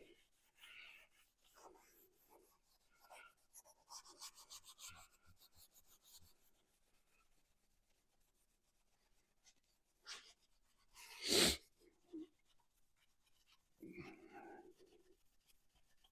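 Hands working on engine parts: scattered rubbing and scraping, a quick run of small ticks early on, and one sharp metal knock about eleven seconds in.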